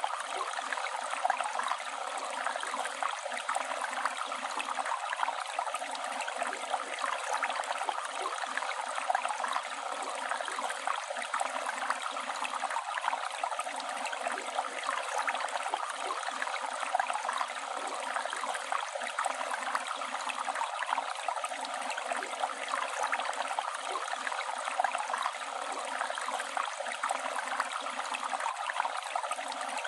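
Flowing river water, a steady rush and babble with no pauses.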